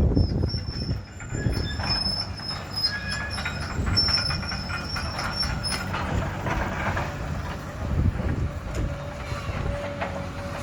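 Demolition machinery working: a low engine rumble with metallic squealing and scattered knocks for the first six seconds or so, then a steady whine near the end.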